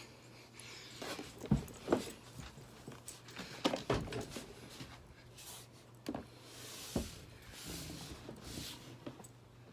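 Scattered soft knocks and short rustles, irregular and a few seconds apart, over a faint steady low hum.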